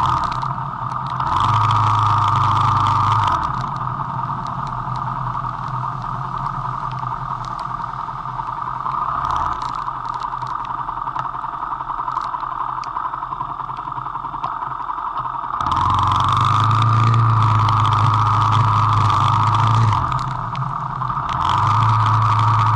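Vento Rocketman motorcycle engine running while riding, with a steady hum throughout. It is louder under way near the start and again from about 16 s on, and eases off to a quieter run in between.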